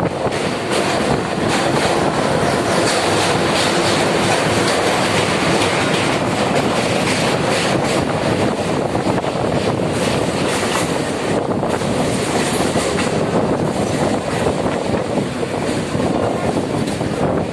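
Train running on rails: a steady loud rumble with a stream of short clicks and clatters from the wheels.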